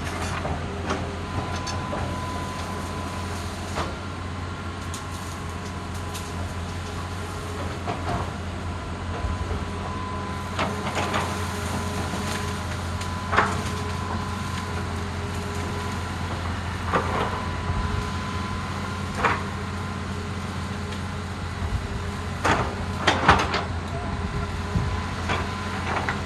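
Excavator's diesel engine running steadily under load, with a faint constant whine, while sharp cracks and knocks come at irregular intervals from about halfway through, the loudest pair near the end.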